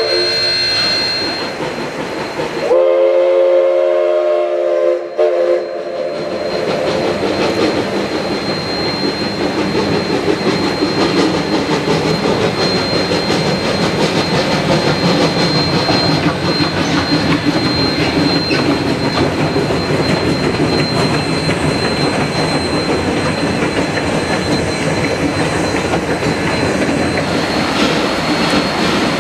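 A train sounds a multi-note whistle for about two and a half seconds, starting about three seconds in. Then comes the steady running clatter and rumble of a train moving along the rails, with a thin high whine held over it.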